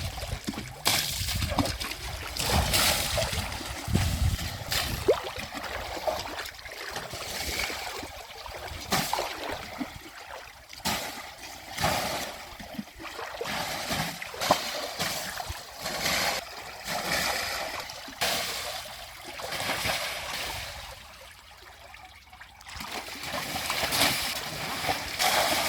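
Water splashing and sloshing in irregular surges, with a low rumble during the first few seconds.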